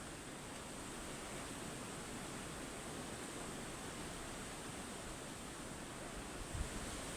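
Steady rushing noise, even across low and high pitches with a faint hiss on top, and a few low rumbling bumps near the end.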